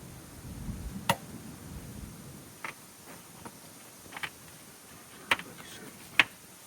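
Sharp metallic clinks of hand tools against scrap metal while a fitting is worked loose, five irregular strikes with the loudest two near the end.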